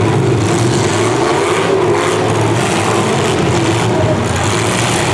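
V8 engines of demolition derby cars running and revving, a loud, continuous engine din whose pitch wavers up and down.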